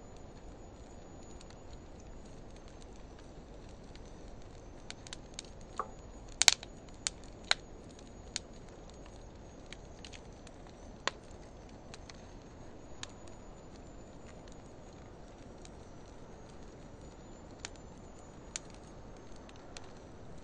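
Wood fire of driftwood and hardwood logs burning with a low steady hiss and scattered sharp crackles and pops, the loudest in a quick cluster about six to seven and a half seconds in.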